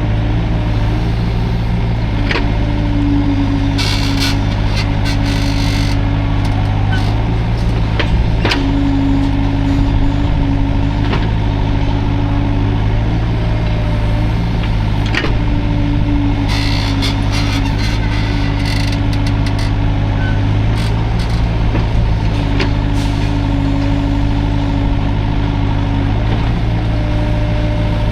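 Hydraulic excavator's diesel engine running steadily under working load, a higher tone swelling and fading every few seconds as the hydraulics work. There are scattered sharp clanks, and two stretches of rushing noise come about four seconds in and again past the middle.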